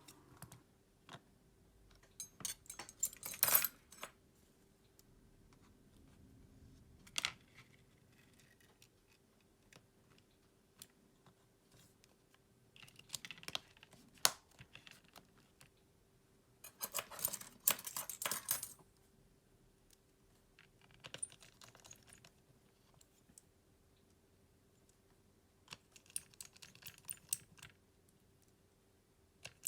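Small tools and phone parts handled on a work surface: short clusters of sharp clicks and light rattles every few seconds, over a faint steady hum.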